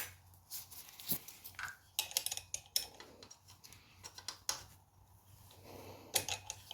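Scattered light metallic clicks and clinks of a small spanner being fitted to and turned on the carburettor clamp, with a few clustered ticks two to three seconds in.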